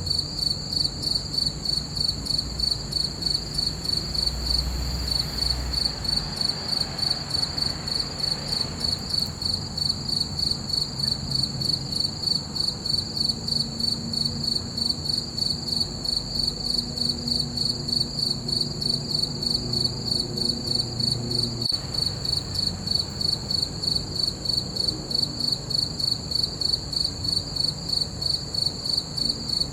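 Crickets chirping in a steady, even pulse, about three chirps a second, with a faint low rumble underneath.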